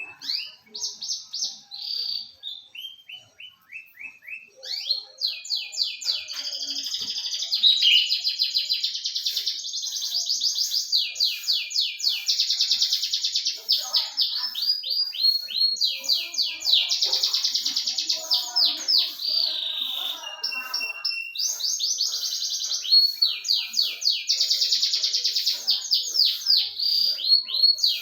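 Domestic canary singing: long phrases of fast rolling trills and rapidly repeated high notes, with brief pauses between phrases.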